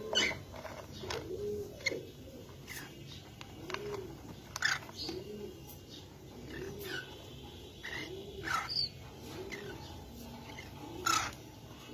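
Domestic pigeons cooing, a low rounded call repeated about once a second, with short sharp high chirps scattered over it.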